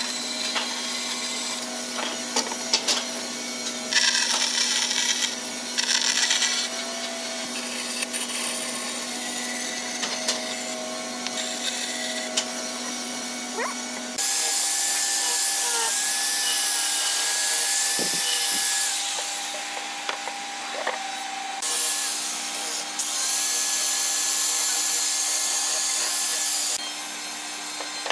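Wood being worked with tools: stretches of rasping, sanding or sawing noise over a steady machine hum. The sound changes abruptly about halfway through.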